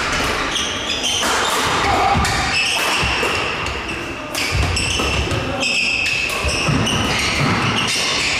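Badminton rally in a hall: rackets hitting the shuttlecock again and again in quick, irregular succession, with court shoes squeaking briefly on the floor.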